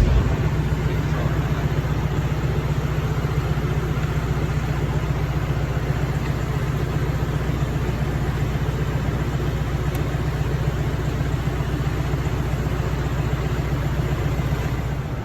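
Tractor engine running steadily with a low, even drone, after a sharp click right at the start.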